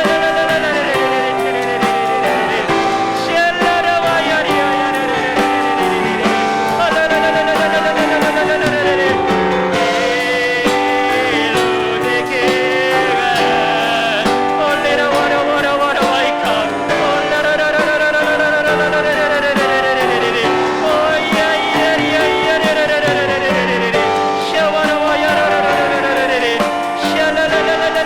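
Worship band music during prayer: a sung, wavering melody over steady piano chords, with no break.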